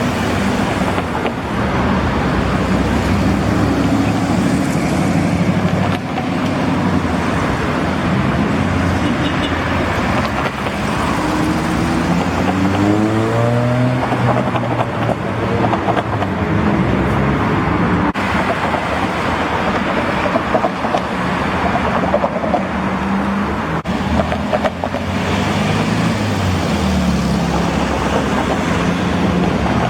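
Classic cars' engines running as they drive past, one accelerating with a rising engine note about halfway through.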